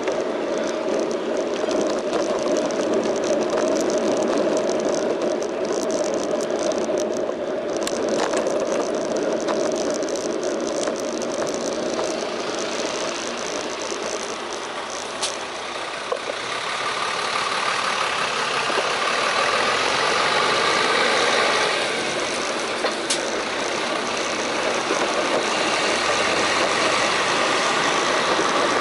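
Street traffic: vehicle engines and road noise, running steadily and shifting in character about halfway through.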